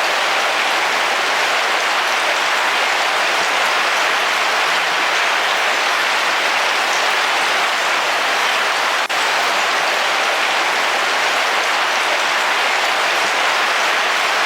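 Heavy rain drumming steadily on a car's roof, with one brief dip in level about nine seconds in.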